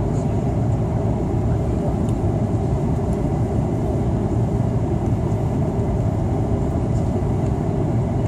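Steady cabin noise of an Airbus A330-300 airliner in flight: a constant low rush of airflow and engine drone with no change in level.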